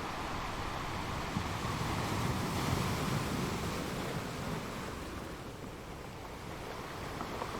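Ocean waves breaking and washing on a shore, a steady surf rush that swells about two to three seconds in and then eases.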